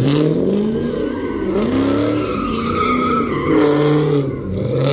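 Car engine revving up and falling back over and over, with tyres squealing and skidding as the car spins doughnuts.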